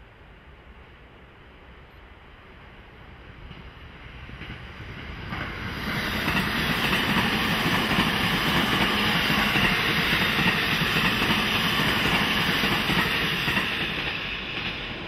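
Trains passing: wheel and running noise builds over the first several seconds, is loudest through the middle with a high hiss, then fades near the end. An electric passenger train goes by close at hand while a locomotive-hauled container freight train comes over the steel truss bridge behind it.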